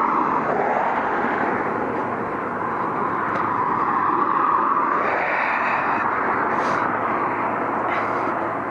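Car running, a steady roar of engine and road noise heard from inside the cabin, shifting slightly in pitch.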